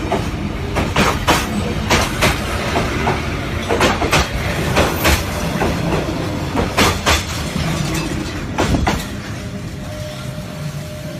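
Indonesian passenger train running on the rails, with a steady rumble and irregular clacks of the wheels over rail joints. About nine seconds in the clacking stops and the sound quietens to a softer rumble, with a faint steady tone coming in.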